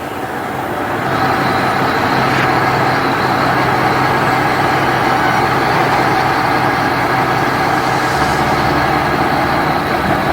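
A large engine running steadily and loudly, rising in level about a second in and then holding a constant hum with a steady pitch.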